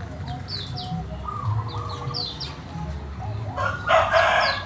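A rooster crowing loudly near the end, over chicken clucking and a small songbird's high, short down-slurred chirps repeated about once a second.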